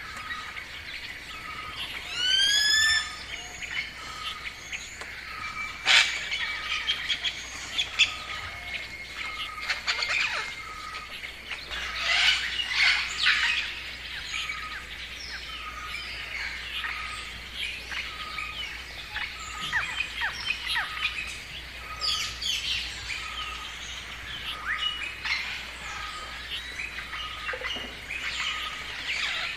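Several wild birds singing together: many short chirps and trills, one bird repeating a short single note about once a second throughout, and a loud call that rises in pitch about two seconds in.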